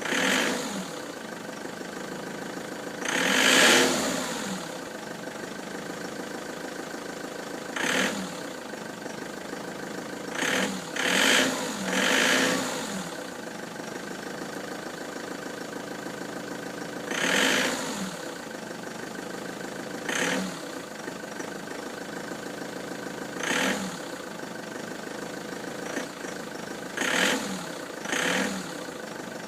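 Ford Transit van engine idling, blipped into a dozen or so short revs that rise and fall back to idle. The van is logging fault codes P0149 and P1564, and this running noise goes with them.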